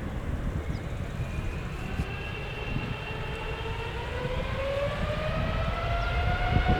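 Boeing 777-300ER's GE90-115B turbofan engines spooling up for the takeoff run: a whine rising steadily in pitch over a low rumble, growing louder.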